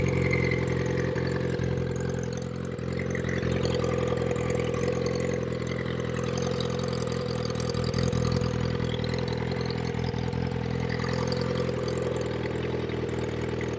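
Turbocharged Suzuki GSX-R1000 K4 inline-four engine idling steadily.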